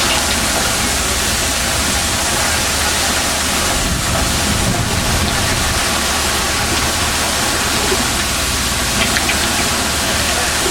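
Fishing boat's engine running steadily under a constant rush of wind and water noise.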